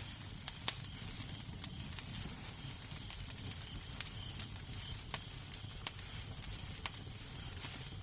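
Wood fire crackling in a fireplace: irregular sharp pops, roughly one a second, over a low steady rumble of the flames.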